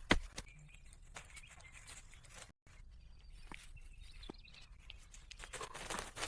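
Scattered light knocks and clicks over quiet outdoor background, with a denser spell of rustling near the end and a brief dropout about two and a half seconds in.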